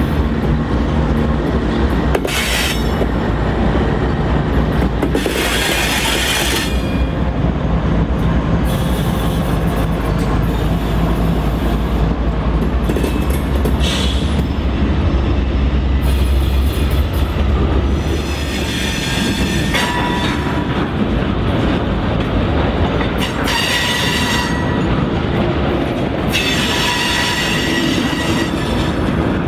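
GE AC4400CW diesel locomotives passing close by with a loud, steady low engine drone. About two-thirds of the way in the drone fades, and the freight cars roll past with wheels clacking and squealing high at intervals.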